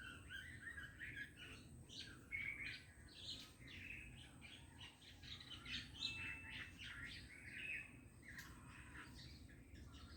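Bulbuls chirping: a busy run of short, overlapping calls, faint, over a low steady background rumble.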